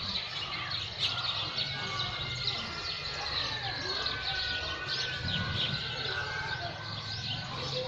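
Small birds chirping rapidly and continuously, with one longer even note around the middle and a low murmur underneath.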